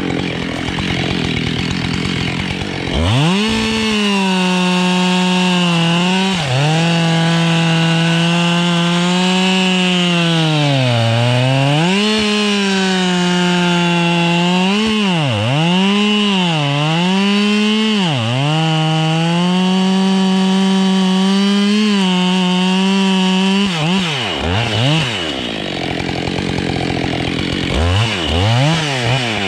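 Husqvarna 572 XPG two-stroke chainsaw revved up from idle about three seconds in and held at full throttle through a long cut into wood. Its pitch sags under load and recovers several times. Near the end the throttle is let off, with a few short revs.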